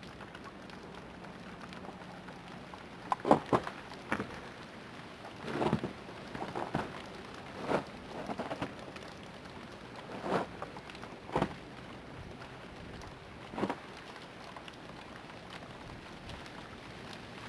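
Ice-laden tree limbs snapping and cracking under the weight of ice: about a dozen sharp cracks and pops, scattered and irregular, over a steady hiss of freezing rain.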